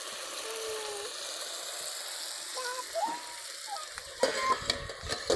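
Potato and brinjal pieces frying in a large metal wok, a steady sizzle. A little after four seconds the sizzle gives way to a few sharp knocks and clicks.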